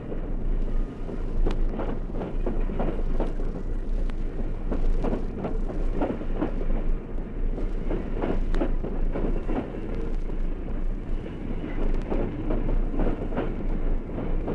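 Steam train running past, its wheels clattering and clicking irregularly over the rail joints over a steady rumble.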